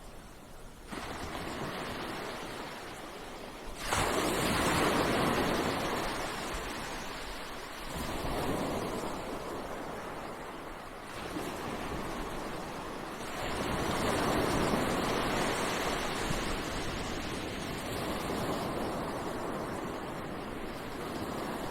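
Ocean surf breaking on a beach: waves wash in and ebb in swells every four to five seconds, one breaking sharply about four seconds in.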